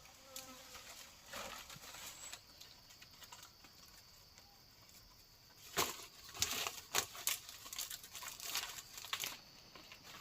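Irregular crinkling and rustling handling noises, faint at first, then a denser run of sharp crackles in the second half.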